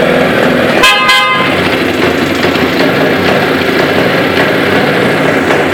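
IZh Jupiter-4 motorcycle's two-stroke twin engine running, with a short beep of its horn about a second in.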